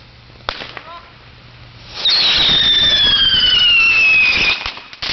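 A bag of fireworks going off on the ground: a sharp crack, then about two seconds in a loud whistling firework that screams for about two and a half seconds with its pitch sliding slowly down, ending in a few sharp bangs and pops.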